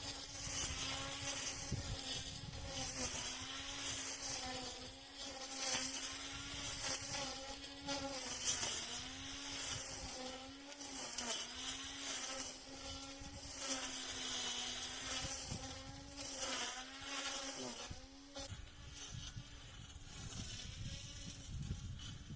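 Cordless battery string trimmer running as it cuts grass, a steady motor whine whose pitch sags and recovers every second or two as the line bites into the growth.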